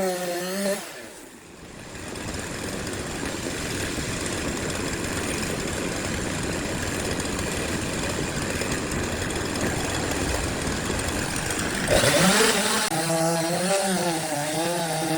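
Wood being cut by a power tool: a steady rough cutting noise for about ten seconds, with a louder burst near the end, framed by a wavering pitched hum at the start and again near the end.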